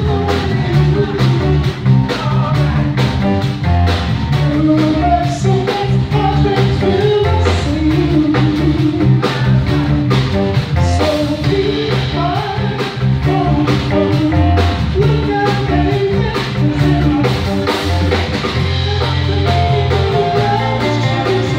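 Live band playing: drum kit keeping a steady beat under a bass line and guitar.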